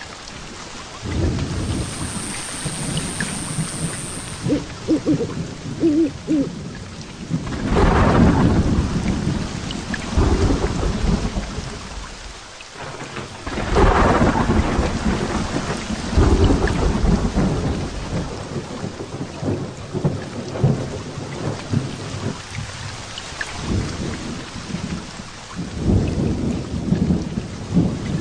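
Heavy rain falling steadily through a thunderstorm, with rolling thunder rumbling again and again; the loudest peals come about a third and halfway through.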